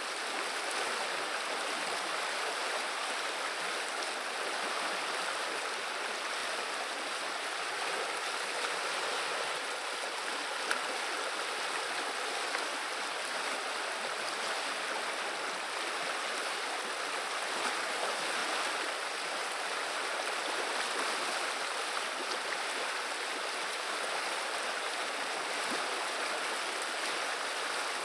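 River water running with a steady, even babbling rush.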